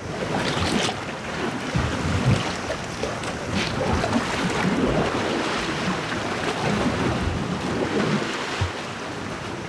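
Sea waves washing against rocks, a steady hiss with irregular low surges, mixed with wind buffeting the microphone.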